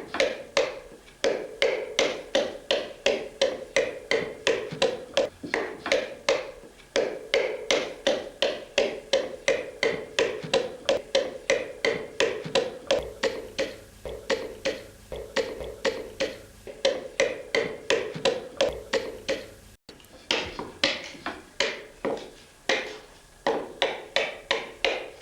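Hatchet striking a fresh chestnut-wood blank in quick, light, even strokes, about three a second, with a few short pauses. It is shaving the wood across the grain layer by layer rather than chopping it off.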